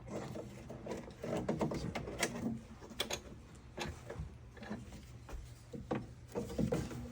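Scattered light clicks, taps and rubbing of metal parts being handled inside a car door: the door-latch rods being worked into their small retaining clips.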